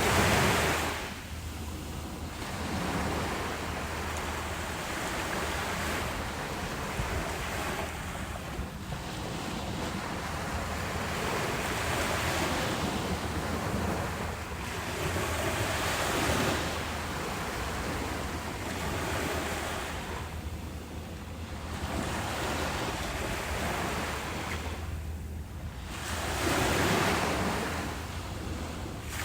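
Ocean waves breaking and washing up a beach, the surf swelling and easing every few seconds, with a steady low wind rumble on the microphone.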